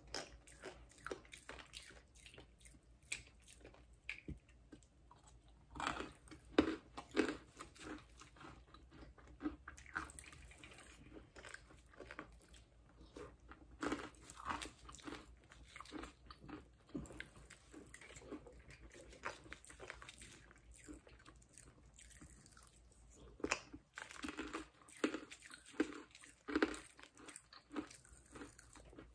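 Close-miked chewing and crunching of candy, coming in clusters of crisp crunches with quieter chewing between.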